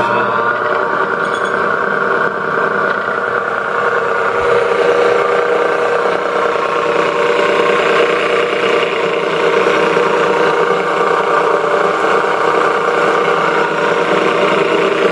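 Conquest 20-inch disc sander's 1.5 hp single-phase electric motor running forward with a steady hum, its rising pitch levelling off about a second in. It runs fine despite a damaged cooling fan and missing fan shroud.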